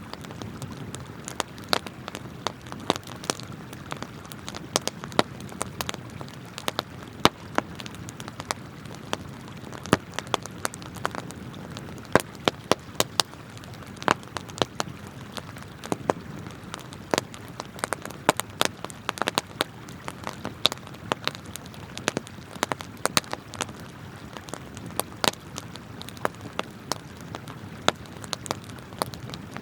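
Wood campfire crackling, with irregular sharp pops and snaps several times a second, over the steady rush of a flowing river.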